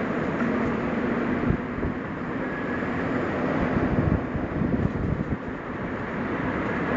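Suzuki Jimny driving on a forest road: steady engine drone with tyre and road noise, and a few knocks from bumps about a second and a half in and again a little past halfway.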